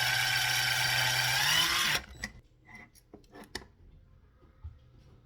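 Power drill running steadily at full speed, then released about two seconds in. A few clicks and knocks follow as it is handled.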